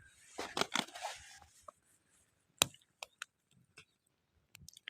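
Small wood campfire crackling: a cluster of snaps in the first second, then a few scattered single pops of burning wood.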